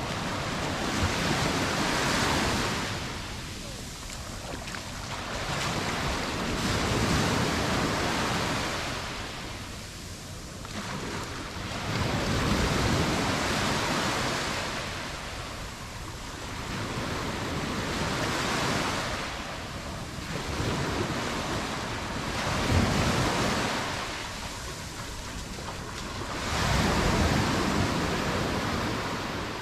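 Mediterranean surf: waves breaking and washing up on the shore, one about every five seconds, each swelling up and then fading.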